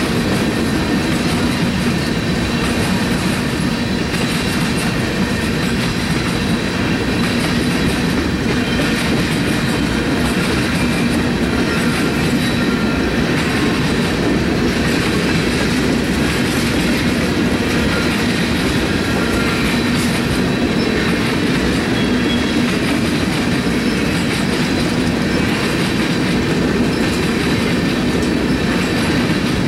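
CSX freight train of tank cars rolling past at a steady speed: a loud, continuous noise of wheels on rails that stays even throughout.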